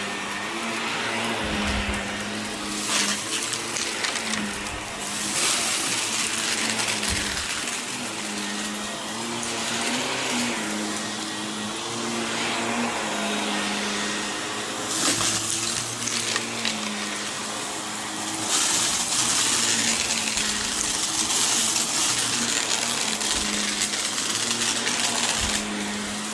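Vacuum cleaner running over a rug: a steady motor hum under an airy suction hiss that swells and eases several times as the machine is worked across the pile.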